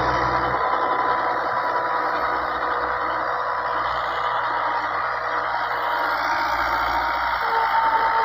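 New Holland 85 hp tractor's diesel engine running steadily, with a constant high whine over the engine noise.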